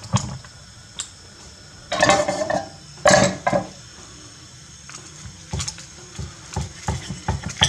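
A knife and plate clinking while a crisp, pan-fried cheese quesadilla is cut open, with two longer crunching bursts a couple of seconds in and a quick run of small taps near the end.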